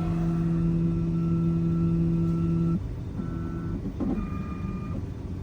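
A computerised key-cutting machine's motors whining as its carriage moves through a calibration run: one long steady hum for nearly three seconds, then two shorter moves at different pitches.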